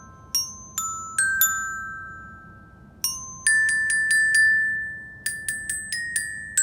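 Glockenspiel metal bars struck one at a time with a mallet, playing a short melody of single ringing notes, several repeated quickly on the same note. Each note rings on after the strike.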